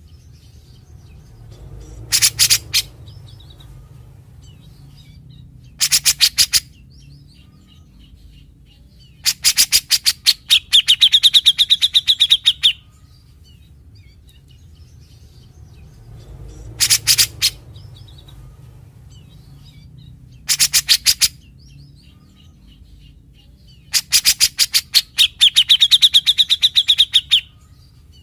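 Grey-cheeked bulbul (cucak jenggot) singing: short bursts of rapid staccato notes, the third burst running straight into a fast rattling trill, the signature 'besetan' of this species. The whole phrase comes twice, about fifteen seconds apart.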